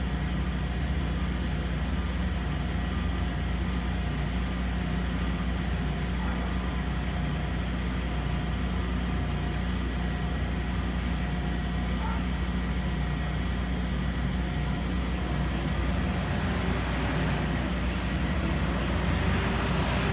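Generac home standby generator's engine running with a steady hum. It started on its own when the utility power was cut and is warming up before the transfer switch puts the house on generator power.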